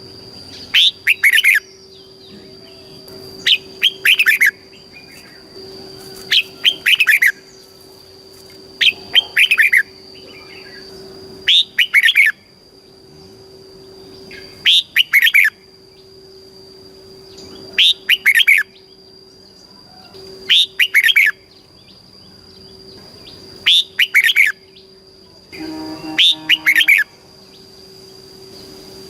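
Red-whiskered bulbul singing short, loud, chirpy phrases, one about every two and a half to three seconds. A faint steady high tone runs underneath.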